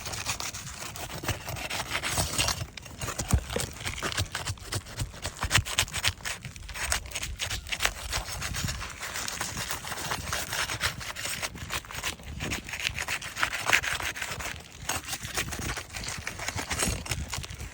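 Metal pry tool scraping and prying under old asphalt 3-tab shingles, with continuous irregular scraping and many short clicks and snaps as the shingles and their nails are worked loose.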